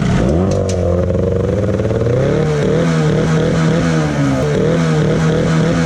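Small boat's outboard motor revving up at the start, then running under way with its pitch rising and falling unevenly.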